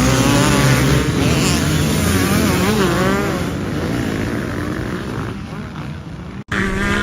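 Dirt bike engine running and revving, with wavering pitch and voices mixed in. It cuts off abruptly about six and a half seconds in, and another loud engine clip starts right after.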